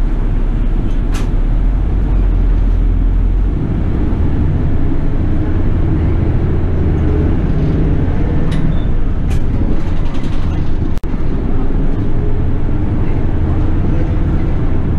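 City bus diesel engine running. It idles with a low steady hum, then about three and a half seconds in the note rises and changes as the bus pulls away and accelerates. A few sharp clicks and knocks are heard along the way.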